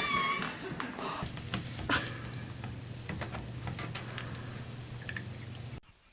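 A dog's high whine that ends just after the start, followed by faint clicks and taps over a low steady hum; the sound drops away almost to silence near the end.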